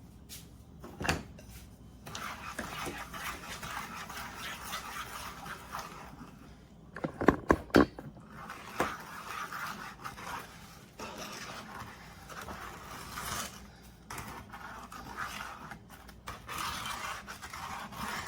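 A spoon stirring and scraping around a bowl of thick microwave praline mixture, in uneven strokes, with a few sharp knocks about seven seconds in.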